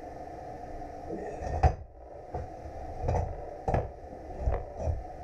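Steel parts and tools being handled, clanking and knocking about six times, the sharpest knock about one and a half seconds in, over a steady background hum.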